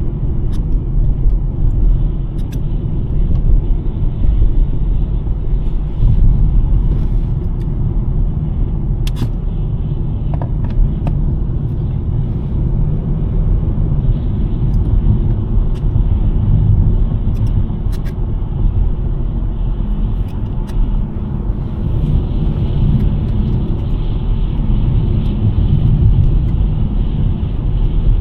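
2023 Nissan Sentra driving: a steady low rumble of engine and tyres on the road, with a few faint sharp clicks scattered through it.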